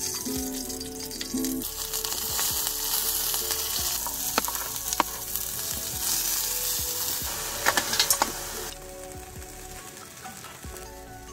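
Ghee sizzling in a steel pan on a camp stove as chopped onion, tomato and chilli fry and are stirred, with a few sharp clinks of the spoon against the pan. The sizzle drops off sharply near the end.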